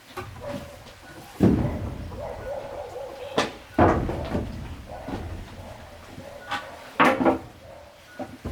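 Several heavy knocks at irregular intervals, two of them in quick pairs, each followed by a short low rumble.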